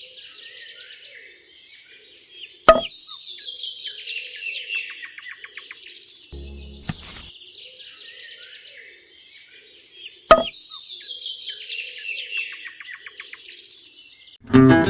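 Birds chirping and trilling in a looped recording that repeats after about seven and a half seconds, with a sharp click twice. Strummed guitar music comes in near the end.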